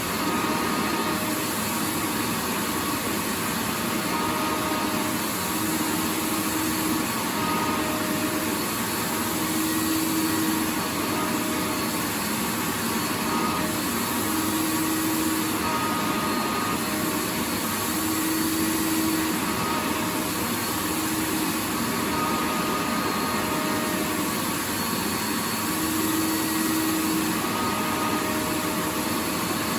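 Vacuum cleaner running steadily, a continuous even noise with faint humming tones that fade in and out every few seconds.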